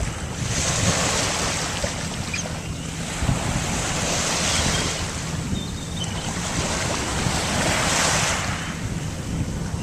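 Wind and surf rushing, swelling about three times, over a low steady hum. Faint herring-gull-type seagull cries come through about halfway.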